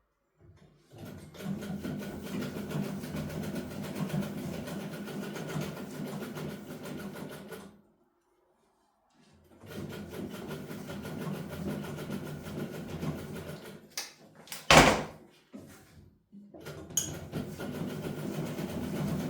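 Domestic sewing machine running in three stretches of stitching, stopping twice, with one sharp knock between the second and third runs. The owner says this machine sews stiffly even after oiling.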